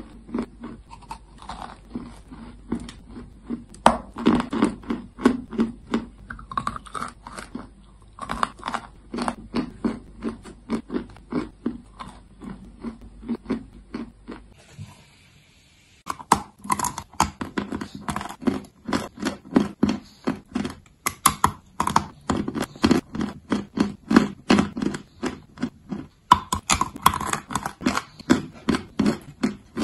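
Close-up crunchy chewing of chalk: a steady run of crisp crunches, about two or three a second. The crunching breaks off briefly near the middle, then resumes.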